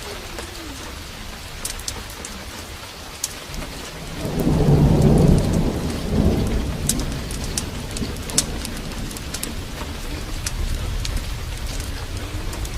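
Heavy rain falling steadily, with a roll of thunder that builds about four seconds in, is loudest around five seconds and then rumbles on low. Sharp crackles of a wood fire in a fireplace pop now and then.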